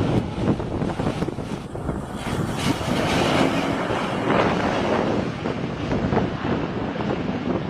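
Light aircraft running, heard as a dense, rough rush of engine noise and wind on the microphone.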